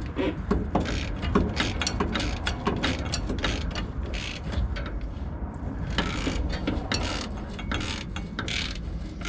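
Hand socket ratchet on a swivel extension clicking in quick, irregular strokes as it backs out a transmission bolt.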